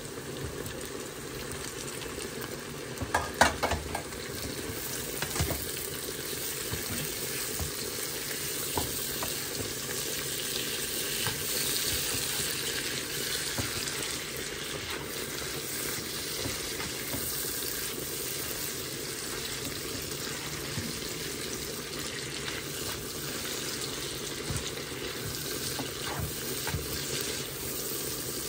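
Food sizzling steadily as it fries in oil in a pan, with a few sharp knocks about three seconds in.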